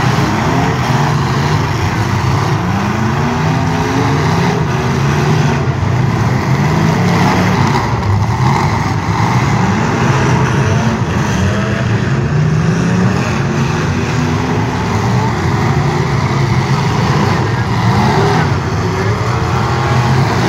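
Several full-size demolition derby cars' engines revving hard, the pitch rising and falling over and over as they accelerate and back off.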